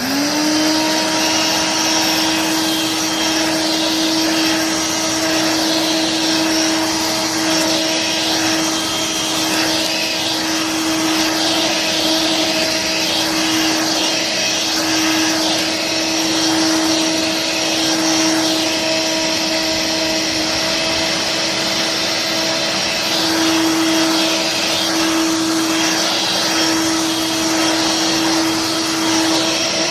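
Dirt Devil Vibe corded stick vacuum switched on, its motor spinning up to a steady, loud whine with rushing suction, run across carpet.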